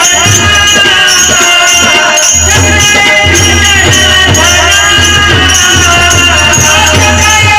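Marathi abhang (devotional song) music: a melody with steadily repeated jingling percussion like small hand cymbals and a low drum beat underneath.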